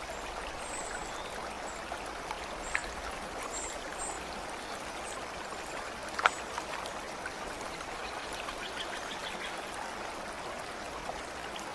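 Running water of a stream, a steady rushing with scattered sharp drip-like clicks, one louder than the rest about six seconds in. Faint short high chirps sound over it in the first few seconds.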